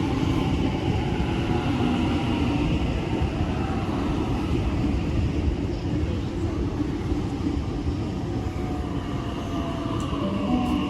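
Sydney Trains Waratah electric multiple-unit train pulling into the platform: a steady rumble of wheels and running gear with a faint whine.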